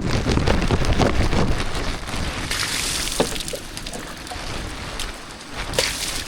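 Water splashing and running in an uneven rush, with two short hissing spurts, one about halfway through and one near the end.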